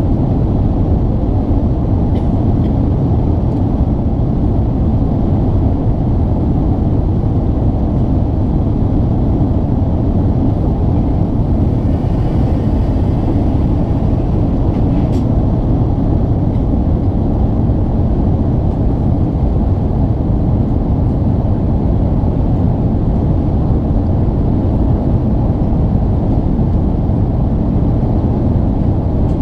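Airbus A380-800 cabin noise heard from a passenger seat: a steady, loud low rumble of engines and rushing air, unchanging throughout.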